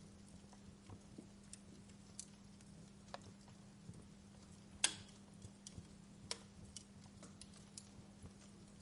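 Wood fire crackling: scattered sharp pops and snaps over a faint low hum, with the loudest pop just before the middle and another a second and a half later.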